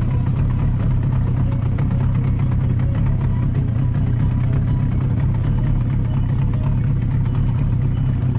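A boat engine running steadily, a constant low drone with no change in speed.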